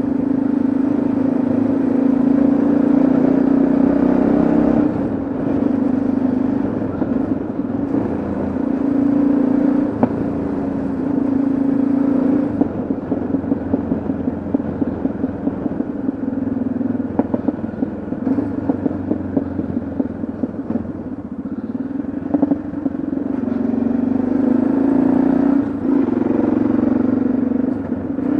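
Yamaha XT660Z Ténéré's single-cylinder engine running on the move. The engine note eases off for a stretch in the middle, then picks up again near the end.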